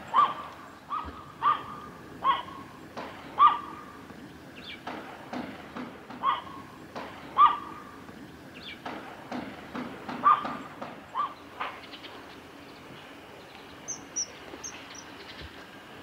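Bird calls: short sharp notes repeating irregularly, about one a second, then a few faint, thin high-pitched calls near the end.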